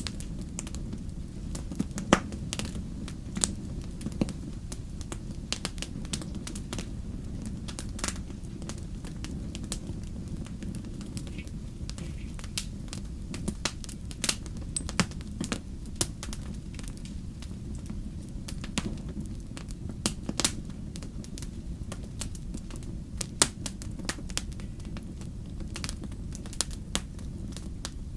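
Wood fire burning in a fireplace: a steady low rumble of flame with frequent irregular crackles and pops, a few sharp louder snaps among them.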